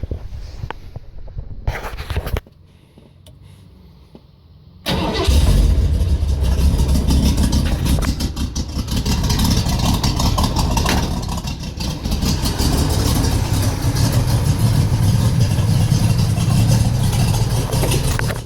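A 351 Windsor small-block V8 in a 1951 Ford F1 starts up about five seconds in, then runs loud through homemade boom-tube mufflers with side-exit exhaust.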